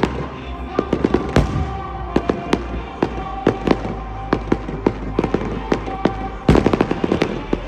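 A fireworks display going off: repeated sharp bangs and crackling reports at irregular intervals, with a dense rapid volley starting about six and a half seconds in.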